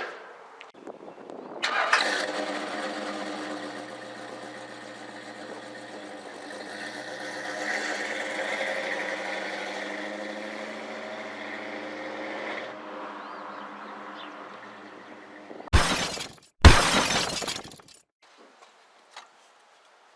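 1969 Lincoln Mark III's 460 V8 starting and running, picking up a little about halfway through and then fading away. Two loud thumps follow near the end.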